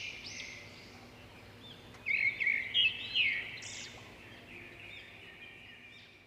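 Small birds chirping: many short, overlapping arched chirps, loudest about two to three and a half seconds in, then fading out.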